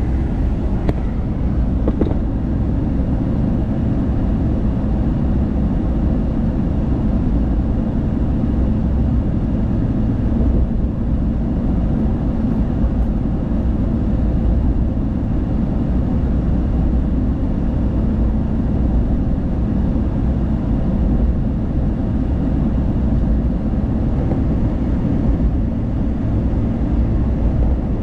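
A car driving at speed: a steady low rumble of tyres on the road, wind and engine.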